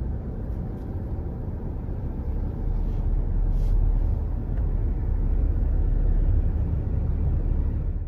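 Steady low rumble of a Toyota Sienna minivan on the move: road and engine noise heard from inside the cabin. It grows a little louder about three seconds in.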